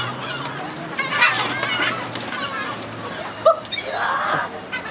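Gulls squawking, a run of harsh, broken calls about a second in and sharp high cries between three and a half and four and a half seconds in.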